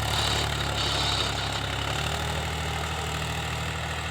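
Powertrac Euro 50 tractor's diesel engine running steadily at low revs.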